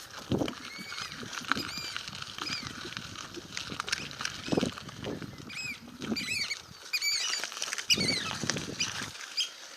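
Repeated short, shrill calls from birds defending a young one, which the rider takes for plovers or oystercatchers. Low rumbling and thumps underneath come from the bike on a bumpy gravel road.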